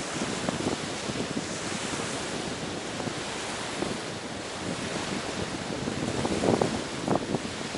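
Sea surf washing onto a beach in a steady hiss, with a couple of stronger surges near the end, and wind buffeting the microphone.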